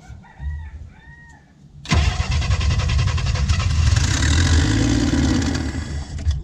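1967 Chevy II engine being started: quiet cranking at first, then about two seconds in it catches and runs loud and rough for about four seconds, and cuts out suddenly near the end. The engine has a vacuum leak at the carburetor, which the owner traces to the throttle blade, and it struggles to keep running.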